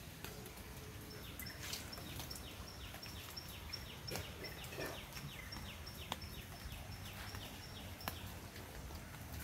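A bird calling a long, fast series of short falling notes, about three a second, that stops about a second before the end, over a low steady rush of floodwater. A few sharp clicks stand out.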